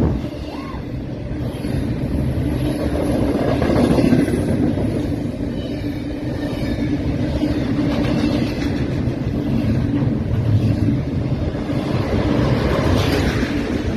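Double-stack container freight train passing close by at speed: a steady, loud rumble of the cars' wheels on the rails.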